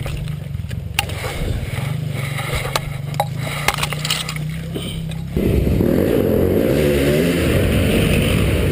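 Dirt bike engine idling with a few light clicks, then about five seconds in it suddenly gets louder, the revs rising and falling.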